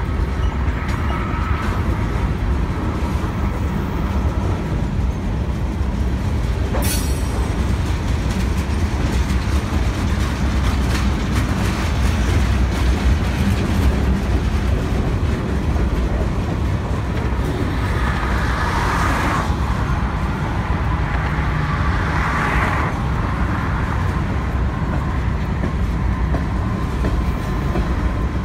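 Freight train of tank cars and covered hopper cars rolling past: a steady heavy rumble of steel wheels on rail. There is one sharp knock about seven seconds in, and two short swells of higher-pitched noise about two-thirds of the way through.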